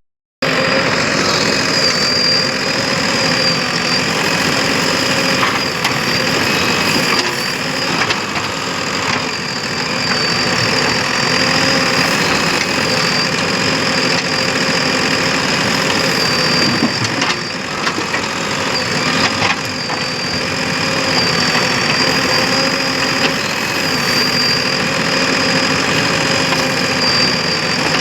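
Heavy diesel machinery running steadily, with a high, slightly wavering whine above the engine note. The sound drops out briefly right at the start.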